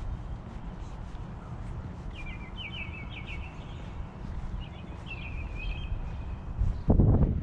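A songbird singing two short, quick trilled phrases a couple of seconds apart, over a steady low outdoor rumble. Near the end a loud gust of wind buffets the microphone.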